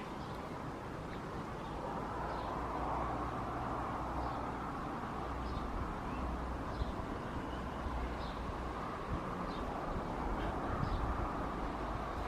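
Outdoor ambience: a bird chirping faintly and repeatedly, about once a second, over a steady rushing background noise with a low rumble that grows a little louder about two seconds in.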